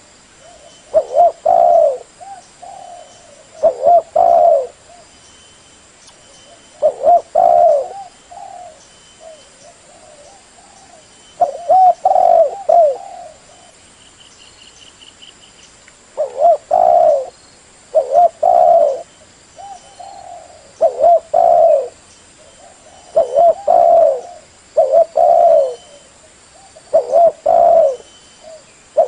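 Spotted dove cooing: a string of low, hollow coo phrases, each about a second long, repeating every few seconds. It is a call recording used to lure doves. A short high trill comes in about midway.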